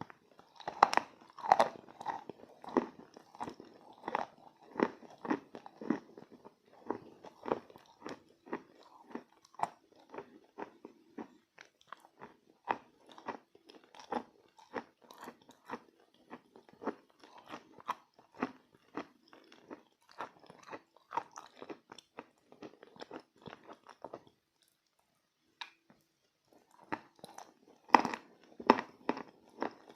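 Close-up crunching of chalk coated in clay paste being bitten and chewed. A loud bite comes about a second in, followed by a long run of crunchy chews at one to two a second. The chewing stops for a couple of seconds near the end, then another loud crunchy bite follows.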